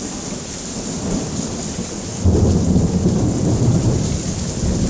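Heavy rain falling steadily, with a low rumble of thunder rolling in a little over two seconds in and carrying on.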